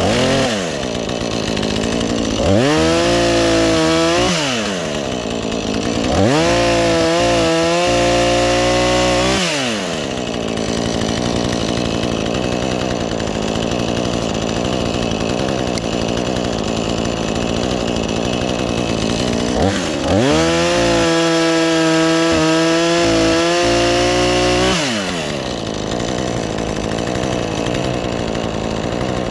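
Two-stroke chainsaw revved up to full throttle three times, each burst held for a few seconds and falling back to idle in between, with a long stretch of idling in the middle.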